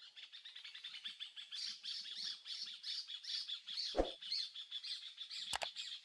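Songbirds chirping rapidly and continuously in a dense chorus of high, quick notes. There is a sharp click about four seconds in and another shortly before the end.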